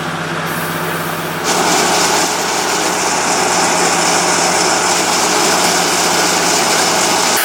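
A vehicle engine running steadily; about a second and a half in it suddenly gets louder, with a strong rushing hiss added over it.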